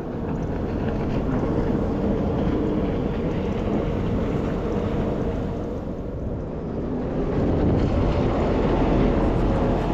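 Watercraft engines running steadily on the water, their note wavering slightly, with wind rumbling on the microphone.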